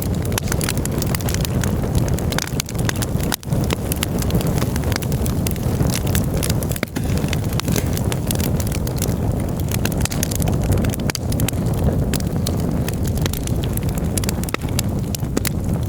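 Campfire crackling with many quick sharp pops and snaps over a strong low rushing sound. The sound cuts out for an instant twice.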